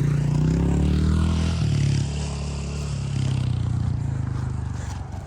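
Honda CRF110 pit bike's small single-cylinder four-stroke engine revving up, dropping back sharply about a second and a half in, then running on more steadily and fading away near the end.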